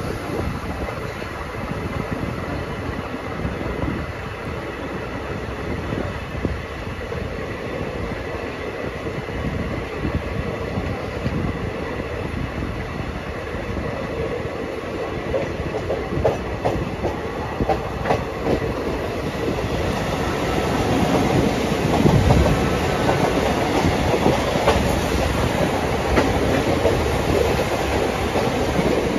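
Passenger train coach running along the track, heard from on board, with the clickety-clack of its wheels over the rails. The running noise grows louder and deeper from about two-thirds of the way through.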